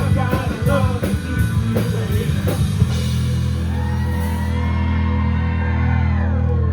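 A live rock band playing, with drums and cymbals for about three seconds. Then the drums stop, leaving a held chord over the bass and a lead line that bends in pitch and slides down near the end.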